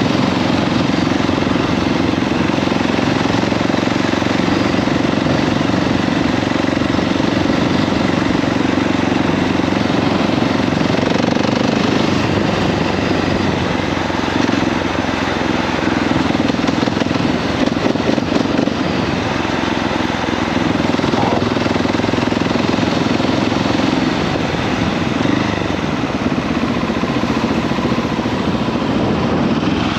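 KTM 690 SMC-R's single-cylinder engine running steadily while the bike is ridden, with a constant rush of wind and road noise over it.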